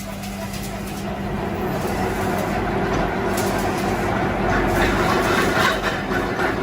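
Steady machine noise, growing louder about a second in.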